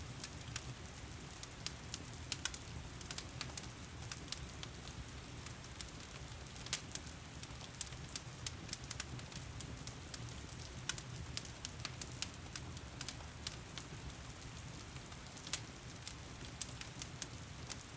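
Wood fire crackling and popping in a fireplace with frequent irregular sharp pops, over a steady wash of heavy rain and a low rumble.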